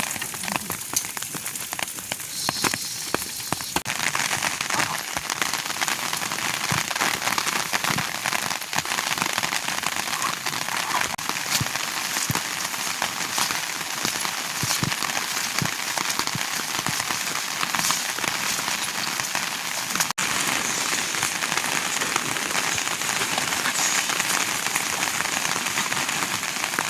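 Steady rain falling, a dense even patter with scattered sharper drops. It fills out about four seconds in and cuts out for an instant about twenty seconds in.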